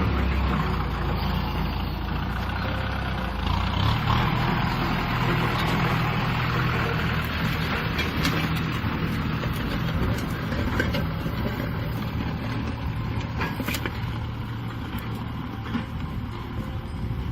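Kubota M6040 SU tractor's diesel engine running steadily under load while ploughing, with a brief rise in engine note about four seconds in.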